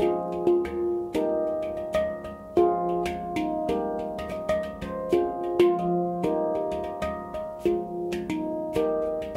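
Handpan tuned to F minor being played by hand: a steady flow of struck, ringing notes, several a second, overlapping into one another.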